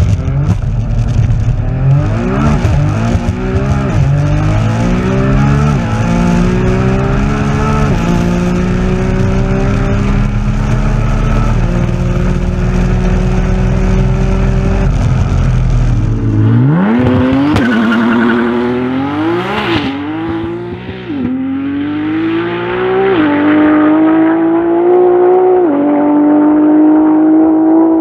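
Twin-turbo V6 of a 2000 hp Nissan GT-R R35 at full throttle, pulling through the gears. The revs climb and drop back at each upshift, then hold nearly steady in sixth near top speed. About sixteen seconds in, the engine is revved in a few sharp blips and then pulls hard again, rising through two more upshifts.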